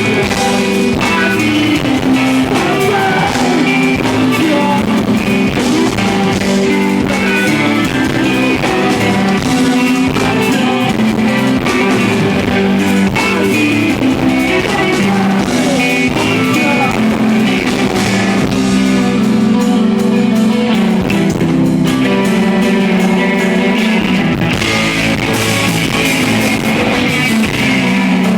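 Live rock band playing a song with loud, steady guitars, recorded from the audience on a handheld device.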